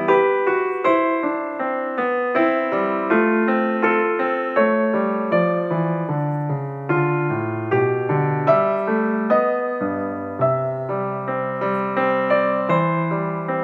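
Piano music: a steady run of notes with a bass line, played without voice.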